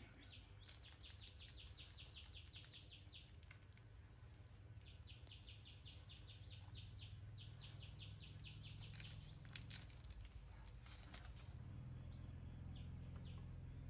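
Faint bird chirping in rapid trills of short high notes, about ten a second, in two runs, over a low steady background hum. About two-thirds through, a few sharp crackles of a plastic snack wrapper being handled.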